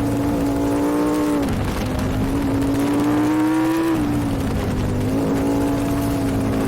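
Superbike engine running hard, heard on board over wind rush. Its pitch dips about a second and a half in, climbs steadily, then drops again about four seconds in.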